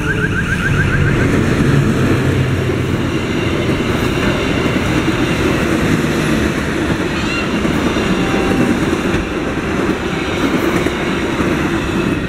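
Diesel-hauled passenger train passing a level crossing at close range, its wheels clattering over the rails in a steady loud rumble. The crossing's warning alarm, a rapid repeating electronic tone, stops about a second in.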